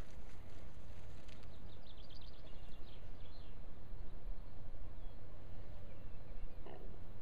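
Steady low outdoor rumble, with a small bird singing a quick run of high chirps from about one to three and a half seconds in, and one short call near the end.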